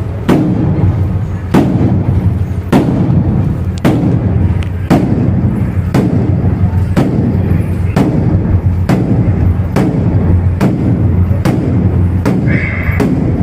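Bedug mosque drum beaten together with the wooden kentong: sharp strikes over a deep, lingering drum boom. The strikes come about once a second at first and speed up toward the end.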